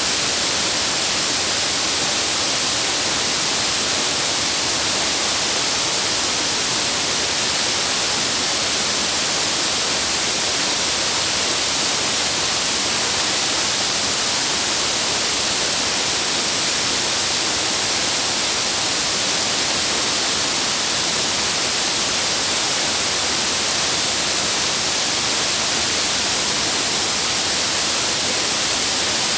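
Waterfall pouring, a steady, even rushing hiss that doesn't change.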